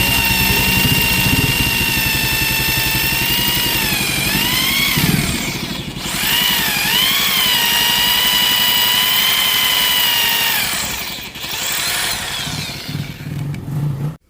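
Electric hand drill running with a steady high whine, its pitch sagging twice as the bit bites and bogs, then winding down: drilling out a rusted exhaust stud in a motorcycle cylinder head.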